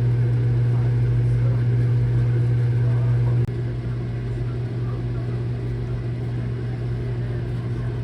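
Steady low machine hum, dropping slightly in level about three and a half seconds in.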